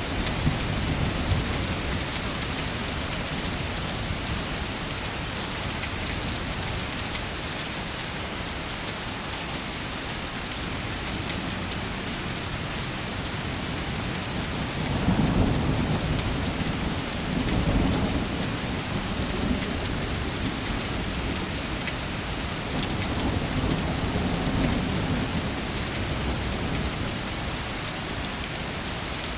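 Steady rain falling, with low rolls of thunder rumbling in about halfway through and again later on.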